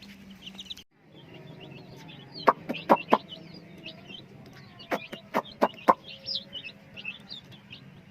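A group of young chicks peeping, many short high chirps throughout. Two clusters of loud sharp taps or knocks cut across them, about two and a half to three seconds in and again around five to six seconds in.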